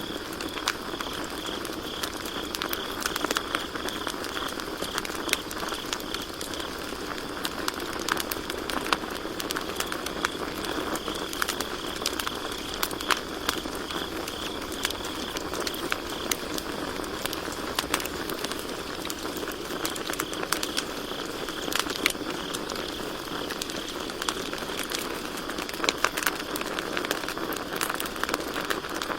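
Campfire burning with irregular sharp crackles and pops over a steady low rush of flame. Crickets chirp in a steady high trill behind it, clearest in the first several seconds and fainter after.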